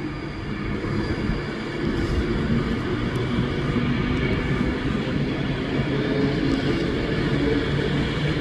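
A train running through the station: a steady low rumble with a low hum of its traction equipment, getting louder about two seconds in.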